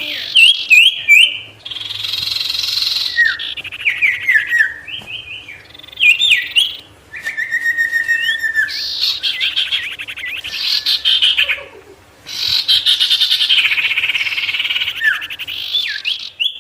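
Sirtu songbird singing in full, continuous song: rapid rolling trills alternating with sharp down-slurred whistled notes, broken by a couple of brief pauses.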